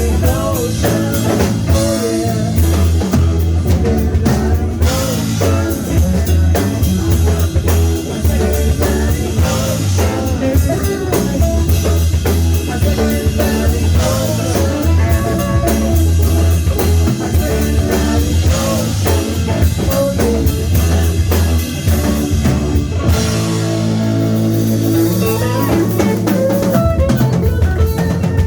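Live rock band playing: full drum kit with rimshots, electric guitar and bass. The low bass end drops out for a few seconds about three-quarters of the way through, then returns.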